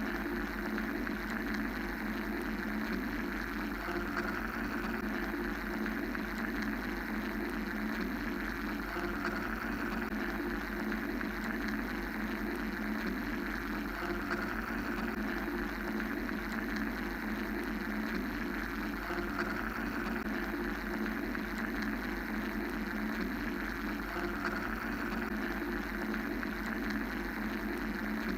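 Steady mechanical white-noise ambience: a constant hum with a rushing hiss over it, swelling gently and slowly every few seconds.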